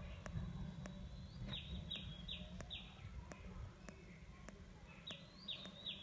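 A small bird's short high chirps, each dropping in pitch, come in a quick run of four about one and a half seconds in and start again near the end, over faint regular ticking and a low hum.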